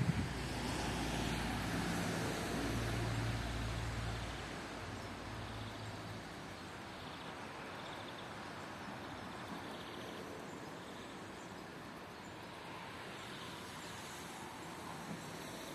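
Steady hiss of falling rain. A low rumble sits under it for the first few seconds and fades out about five seconds in.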